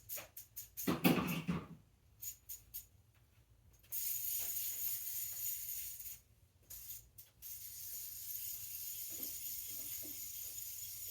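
Clicks and rattles of bicycle parts and tools being handled, with a louder clatter about a second in, followed by a steady hiss.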